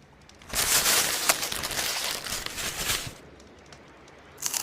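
Small plastic building-block pieces handled: a dense crinkling, rattling noise with many small clicks, starting about half a second in and lasting about two and a half seconds, with another short burst near the end.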